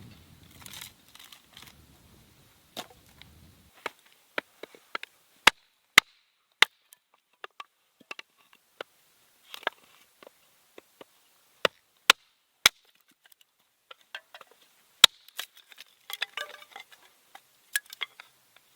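Small Gränsfors Bruk hatchet splitting firewood: a series of sharp, irregularly spaced knocks of the blade striking and biting into wood, with a short spell of crackling as wood splits and falls apart near the end.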